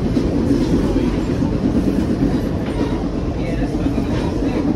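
Amtrak Piedmont passenger train running on the rails: a steady, loud rumble with wheel-on-rail noise.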